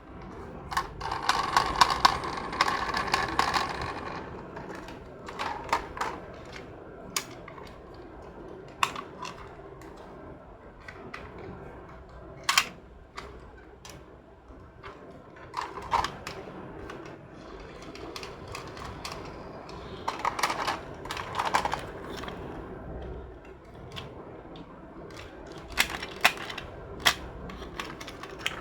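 Light plastic clicking and clatter from small toy cars, with scattered sharp knocks and longer rattling runs about a second in and again around twenty seconds in.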